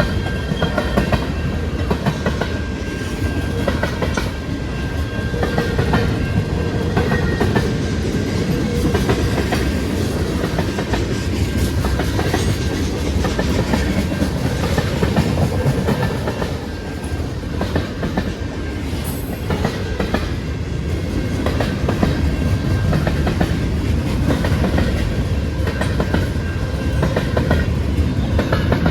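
A train rolling past at close range, its wheels clicking steadily over the rail joints over a continuous rumble.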